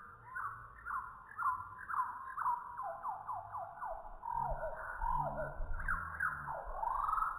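A bird calling in a fast series of downward-sliding whistled notes, about two a second, with a rising-then-falling note near the end. A low droning sound joins about four seconds in.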